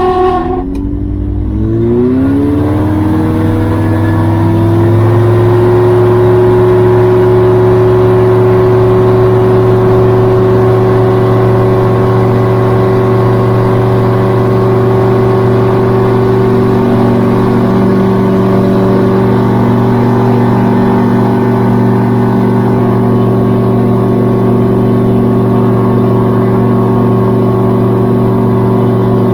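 Gyrocopter engine revving up over the first few seconds, then running steadily at high power.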